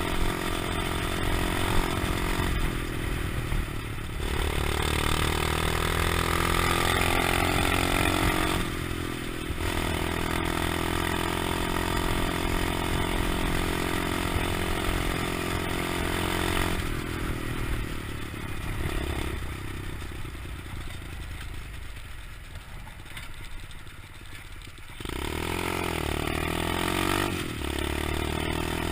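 125cc pit bike engine running as the bike is ridden, its pitch rising and falling with the throttle. Partway through it drops to a quieter, lower stretch before picking back up near the end.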